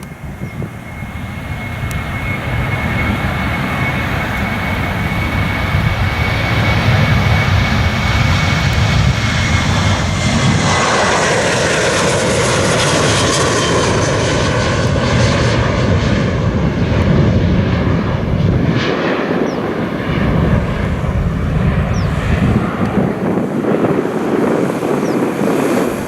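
Jet airliner departing and passing close by: a high engine whine that drops in pitch about ten seconds in as the aircraft goes past, over a rushing engine roar that swells to its loudest just after, then the low rumble thins as it climbs away.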